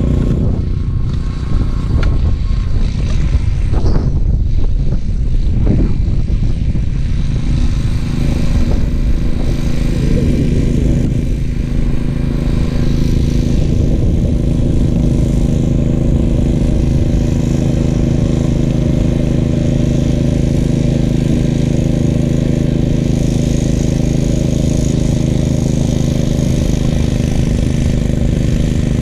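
Gravely 430 tractor engine running steadily while driving a 38-inch front-mounted snowblower, with a few brief changes in the sound in the first several seconds.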